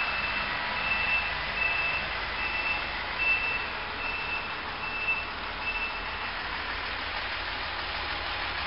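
A vehicle's reversing alarm beeping on one high pitch, about one beep every 0.7 seconds, stopping about six seconds in, over a steady background of engine and outdoor noise.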